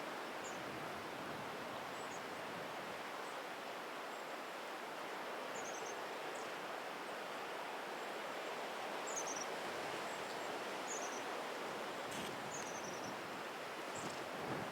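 Steady outdoor background noise, with a small bird giving short, high, falling chirps every second or two.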